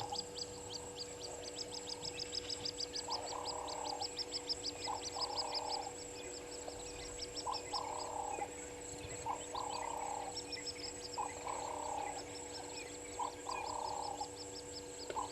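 Chorus of wild animal calls at a waterhole: a short call repeats about every one and a half to two seconds over a fast, high ticking that thins out after the first few seconds, with a steady high drone underneath.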